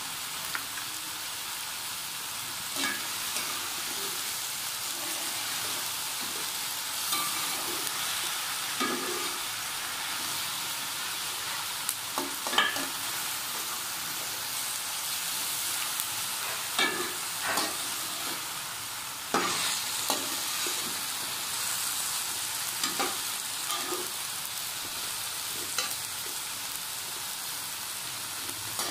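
Okra, sliced onions and green chillies sizzling steadily as they fry in oil in a metal pot, with a slotted metal spatula scraping and clinking against the pot every few seconds as they are stirred.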